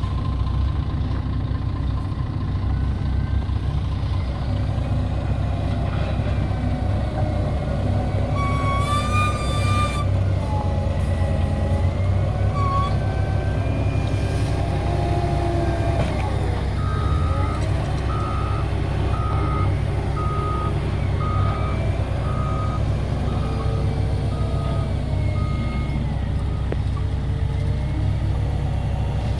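CAT 120M2 motor grader's diesel engine running steadily under load as it works dirt. A brief high squeal comes about a third of the way in, and later a reversing alarm beeps about nine times, a little under once a second.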